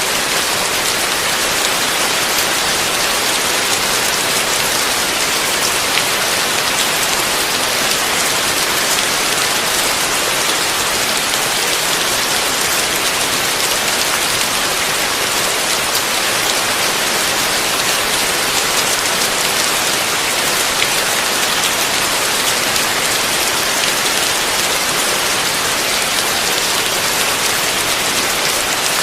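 Heavy rain falling steadily: a dense, even hiss with occasional single drop ticks standing out.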